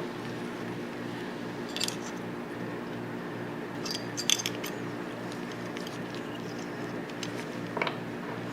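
Small steel parts of a Tokarev TT-33 pistol clicking and clinking as they are handled and fitted together: one click about two seconds in, a quick cluster around four seconds in, and a few more near the end. A steady low hum runs underneath.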